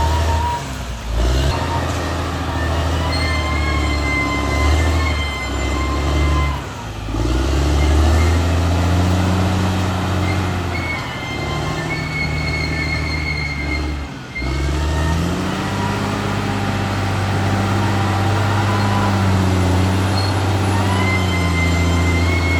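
Caterpillar D6R XL bulldozer's diesel engine running under changing load, its note rising and falling and dipping briefly three times, with a thin high whine over it.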